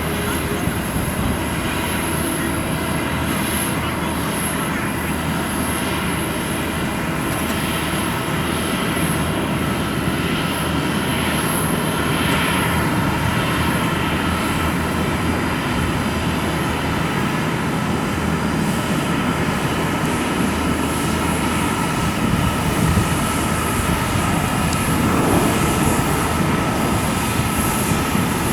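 Airbus A320neo airliner's Pratt & Whitney PW1100G geared turbofan engines running as it lands: a steady jet roar with a held whine, growing a little louder in the second half.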